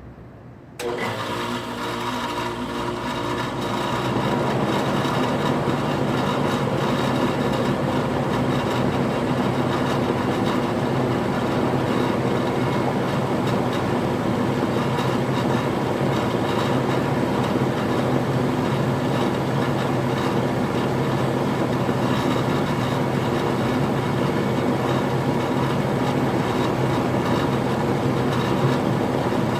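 1997 3-ton Ruud 10 SEER central air conditioner starting up about a second in, building over a few seconds to a steady running hum and whir.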